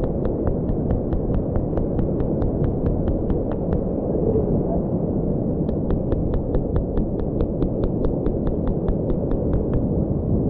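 Wind buffeting the microphone over the rumble of surf. Through it runs a faint, even ticking, about five ticks a second, in two spells of about four seconds each with a short break between.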